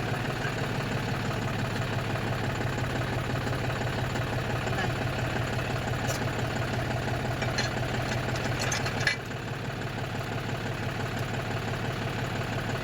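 Tractor's diesel engine running at a steady idle, with a few short clicks and knocks between about six and nine seconds in. Its sound drops suddenly a little after nine seconds and carries on quieter.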